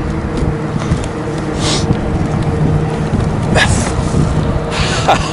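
Wind buffeting the microphone over a steady low hum, with a few short hisses about a second and a half apart.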